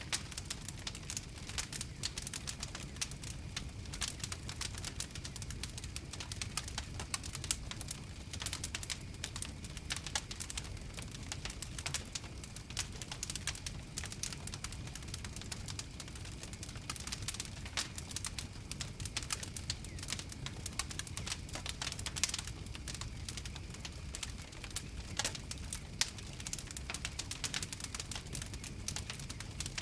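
Wood fire crackling: a dense, irregular run of sharp pops and snaps over a low steady rumble of flames.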